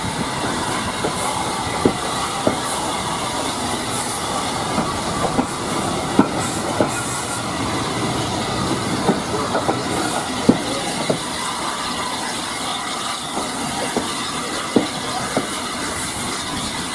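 Heritage railway carriage running along the track, heard from on board: a steady rolling rumble with irregular sharp clicks and knocks from the wheels over the rail joints.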